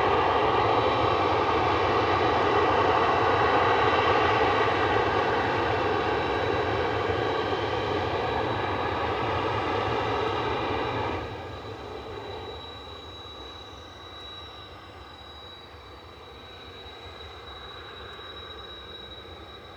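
Jet aircraft engine running with a steady high whine over a rushing noise. About eleven seconds in the sound drops sharply, leaving a quieter whine, with a faint high tone falling slowly in pitch.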